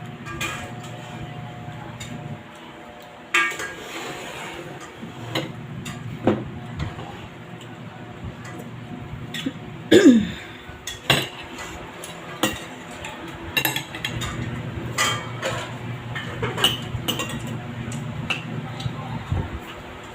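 Spoon and fork clinking and scraping on plates and bowls while people eat, in scattered sharp clicks over a steady low hum. A short falling sound about ten seconds in is the loudest moment.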